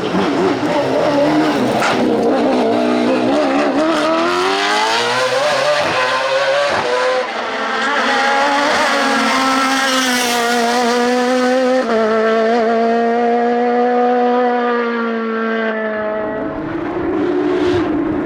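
Rally car engine under hard acceleration on a hillclimb, its pitch climbing with short breaks at upshifts about seven and twelve seconds in. It then holds a steady note and fades away near the end.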